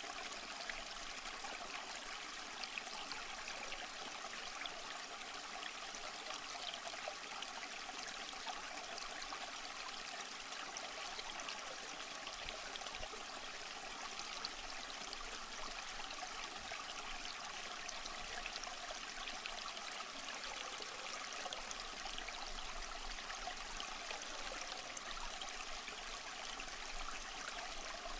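Small stream flowing: a steady, even trickle and splash of running water, mostly high-pitched with little low end, unchanging throughout.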